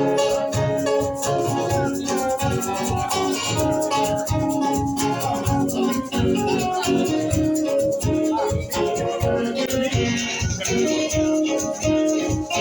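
Live band playing an instrumental passage with a steady beat and held notes, before any singing comes in.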